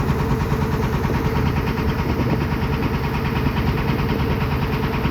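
A motor running steadily, with a fast, even pulse and a constant hum.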